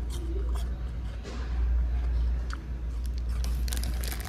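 Chewing of a crisp apple slice, with short crunchy clicks, while the plastic apple-slices packet crinkles in hand, over a steady low hum.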